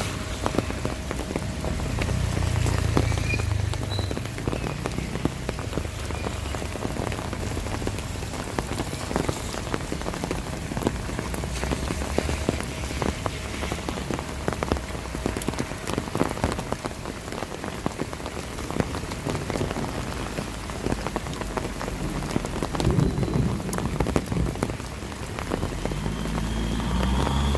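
Steady rain with dense, close raindrop patter, with low rumbles now and then, loudest a couple of seconds in and again near the end.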